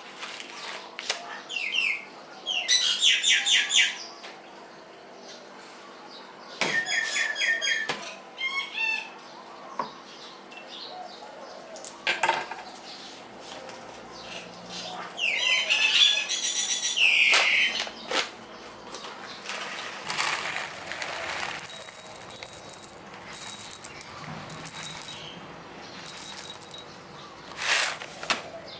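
Bird chirps and rapid trills in three bursts, over a faint steady hum, with a few short clicks and knocks.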